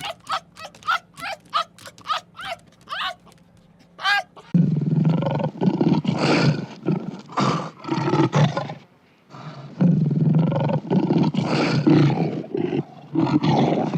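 Animal calls: a quick run of short, pitched calls, about two or three a second, then from about four and a half seconds in, loud, rough, throaty calls in two long bouts with a brief pause between them.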